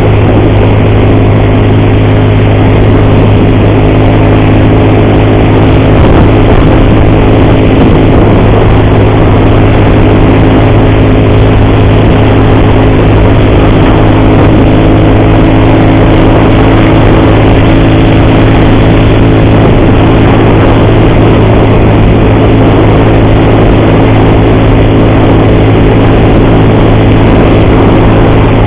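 Motorcycle engine running steadily at a constant cruising speed, heard from the bike itself. The rider says it has an ugly noise from the cam chain (timing chain).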